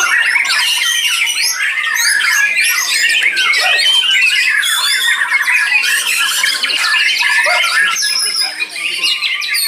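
Several white-rumped shamas singing over one another in a dense, unbroken stream of whistles, chirps and trills.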